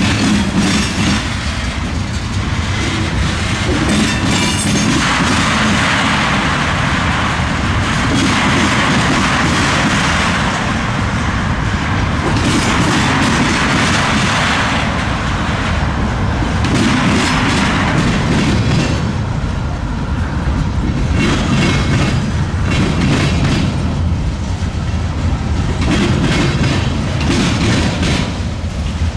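Freight train cars rolling past, their wheels clattering over the rail joints and frogs of a railroad diamond crossing.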